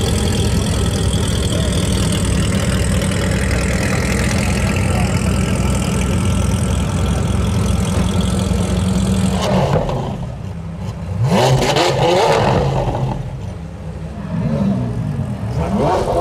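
Supercar engine running steadily for about nine seconds, then dropping back and revved twice, the pitch rising and falling each time.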